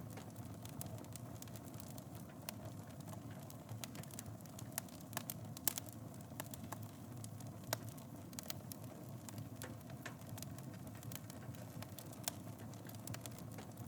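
Fire burning in a fireplace, crackling: a steady low rumble of flames under frequent sharp pops, with a few louder pops about six, eight and twelve seconds in.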